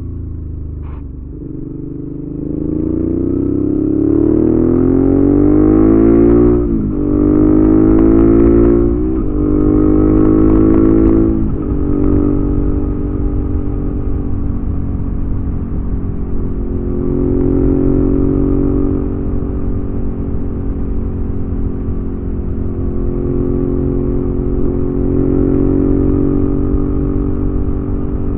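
2019 Suzuki V-Strom 650's V-twin engine through a Delkevic aftermarket exhaust, accelerating through the gears: the pitch climbs and dips sharply three times at the upshifts. From about twelve seconds in it holds a steady cruise.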